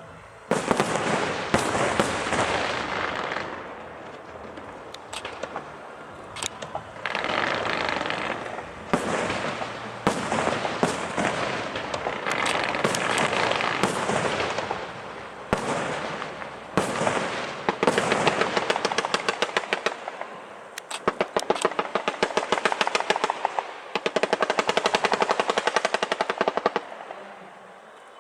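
Aerial fireworks going off: shells bursting in a string of loud bangs, each trailing off in crackle. In the last third comes a long run of rapid, machine-gun-like crackling reports.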